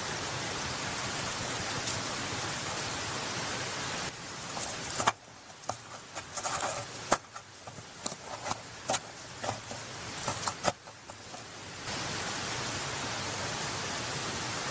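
Meat sizzling on a charcoal grill, a steady even hiss. From about four seconds in to about twelve, the hiss gives way to a quieter stretch of sharp clicks and clinks, then the hiss returns.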